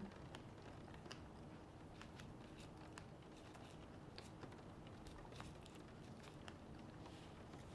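Faint close-up chewing of a cream pastry: soft, scattered mouth clicks and small crunches, over a faint steady hum.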